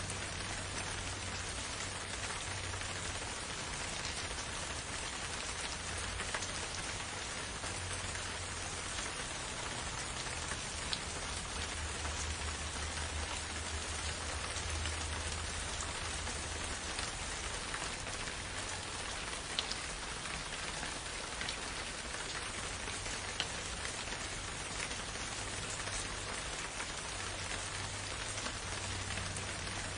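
Gentle, steady rain falling: an even hiss of rainfall with a few sharper single-drop ticks now and then.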